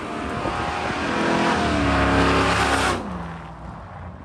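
Restomod 1953 Chevy 3100 pickup with a 6.0-litre LS V8 driving past under acceleration. The engine note climbs and grows louder, peaks about two seconds in, then drops in pitch and fades as the truck goes by about three seconds in.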